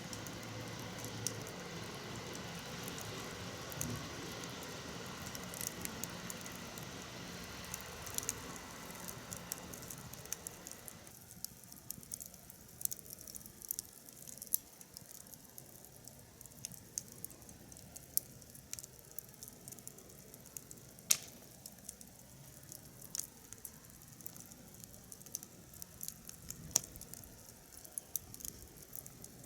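Wood fire crackling in a fire pit, with frequent irregular sharp pops and snaps. A steady background hiss with a faint hum cuts off suddenly about eleven seconds in, leaving the crackles over a quieter background.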